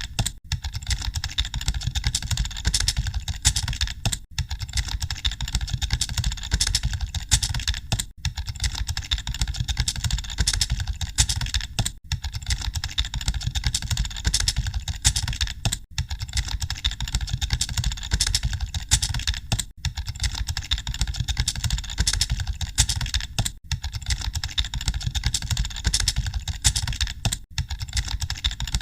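Continuous rapid typing on computer keyboards, a dense run of key clicks with a brief break about every four seconds.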